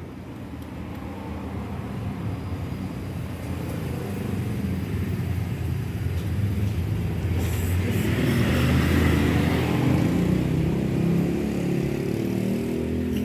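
A motor vehicle's engine drawing nearer, growing steadily louder to a peak about nine seconds in, then easing a little.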